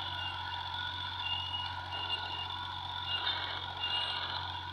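John Deere tractor engine running steadily under work, with short high-pitched squeals recurring over the engine noise.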